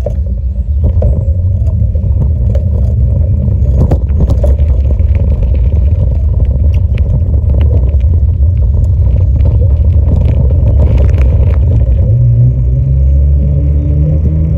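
Heavy low rumble of wind buffeting the microphone while riding a bicycle, with scattered clicks and rattles from the bike.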